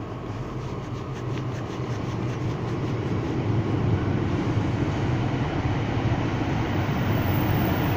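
Diesel multiple unit passenger train approaching along the track, its engine hum and wheel noise growing steadily louder as it comes in toward the platform, with faint light clicks from the rails early on.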